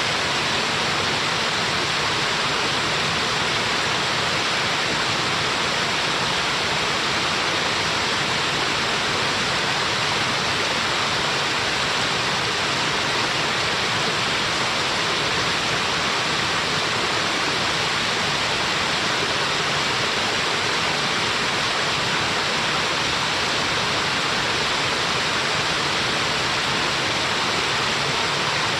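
Small waterfall: water falling and splashing into a pool, a steady, even rush with no change.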